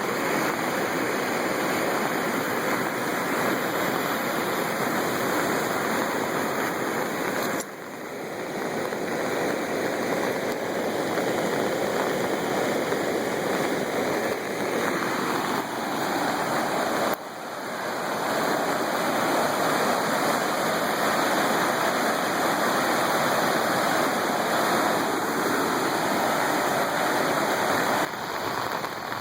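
Flooded river water rushing past in a steady, dense flow. The sound drops briefly and builds back twice, about 8 and 17 seconds in.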